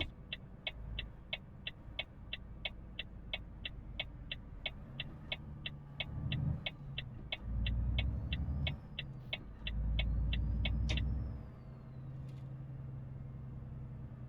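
Turn-signal indicator ticking about three times a second in a Volvo FH truck cab, stopping about eleven seconds in. Underneath, the truck's 500 hp diesel engine rumbles low and swells louder in several stretches as it pulls under load, then settles to a steady hum.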